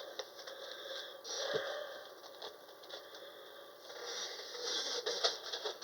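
Scratchy rustling and scraping in two bursts, with small clicks throughout.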